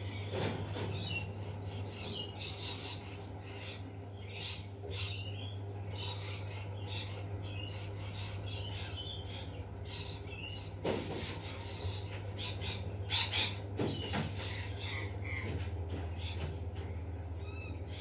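Wild birds calling in a garden: many short, high chirps repeating throughout, with a few louder, harsher calls about eleven seconds in and again a couple of seconds later. A steady low hum runs underneath.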